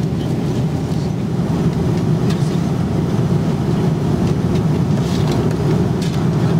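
Steady drone of an Airbus A330's jet engines and airflow, heard from inside the passenger cabin.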